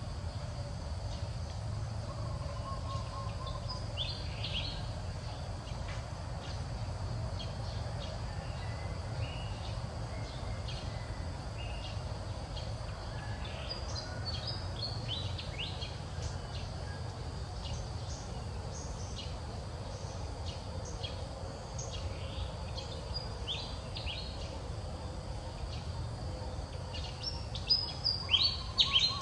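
Outdoor ambience: a steady low rumble with scattered short, high bird chirps, and a cluster of louder chirps near the end.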